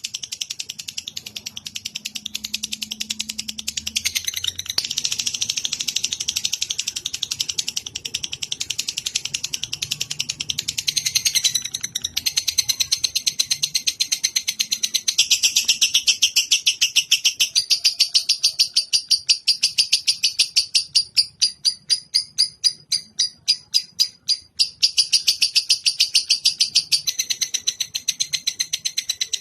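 Bird giving a long, very fast chattering trill of high chirps, many per second, broken only by brief pauses twice and slowing into separate pulses for a few seconds past the middle. This is the continuous trill used as lovebird masteran.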